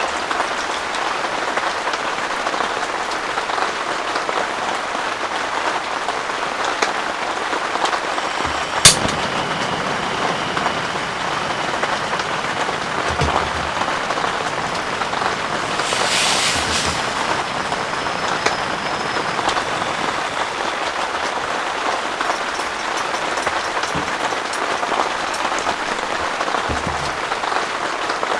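Heavy rain pouring steadily. A single sharp knock about nine seconds in, and a brief hiss a little past halfway.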